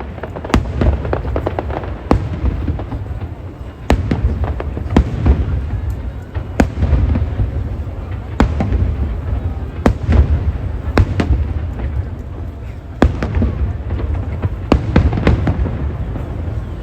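Aerial fireworks bursting: a continuous low rumble of booms with many sharp cracks and pops at irregular intervals, and fresh volleys starting about four seconds in and again near the end.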